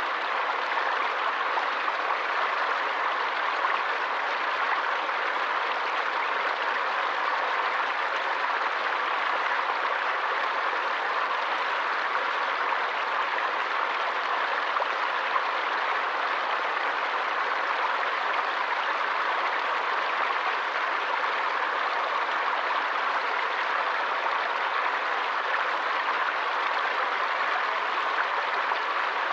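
Forest stream flowing: a steady, even rush of running water with no single splashes standing out.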